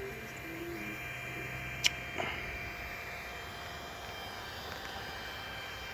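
3D printer running mid-print: a steady whir of its cooling fans, with the stepper motors' short, shifting tones in the first second. A sharp click just under two seconds in, and a softer one just after.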